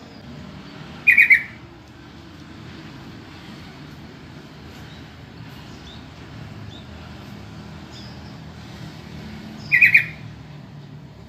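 Yellow-vented bulbul (trucukan) giving two short calls, each a quick bubbling run of notes, about a second in and again near the end, over a steady low background rumble.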